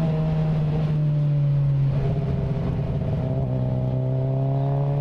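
Suzuki GSX-R SRAD motorcycle's inline-four engine running through an adapted aftermarket exhaust while riding. The note sags slightly, changes about two seconds in, then slowly climbs as the throttle comes back on.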